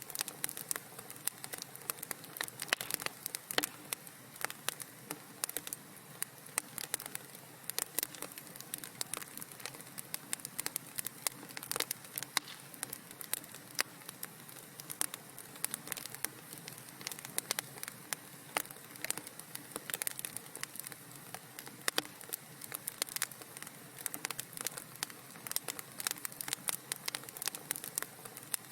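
Wood fire crackling in a fireplace: a steady, irregular run of sharp pops and snaps over a soft hiss.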